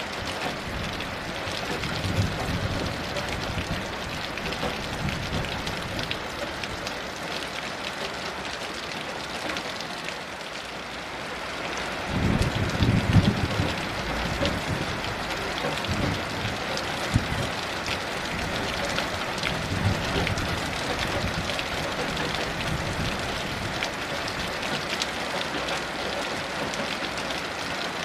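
Steady heavy rain hissing and pattering, with low rumbles of distant thunder swelling up now and then, the strongest about twelve seconds in.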